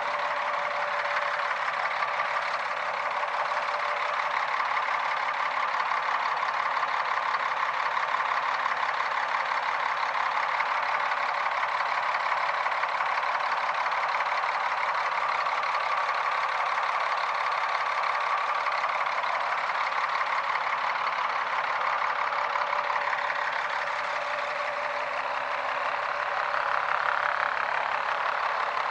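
Caterpillar diesel engine of a 2001 Freightliner FL70 truck running steadily.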